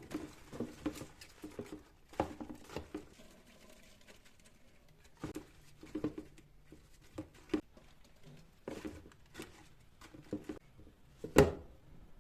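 A run of light clicks, taps and rustles of things being handled, with one sharper knock near the end.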